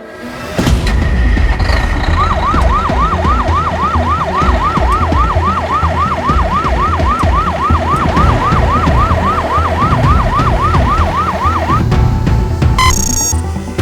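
Fire truck siren in a fast yelp, its pitch sweeping up and down about three times a second, over a deep steady rumble. The siren stops near the end, followed by a brief harsh tone.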